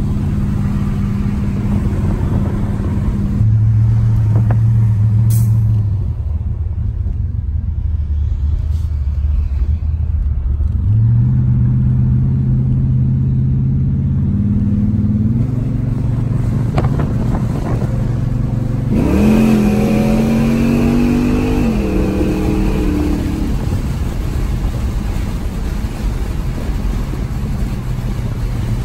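Modified 500-horsepower 1993 Chevrolet C4 Corvette's V8 running while cruising, its engine note stepping up and down with speed and gear changes. Roughly two-thirds of the way in there is a brief rev that climbs and then drops back.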